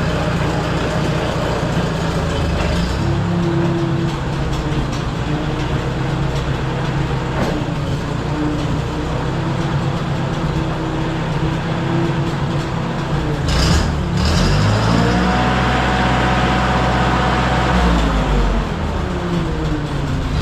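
Case 310 crawler dozer's engine running, with its speed changing several times: the revs rise about two-thirds of the way through and drop back a few seconds later. A brief sharp clank comes just before the revs rise.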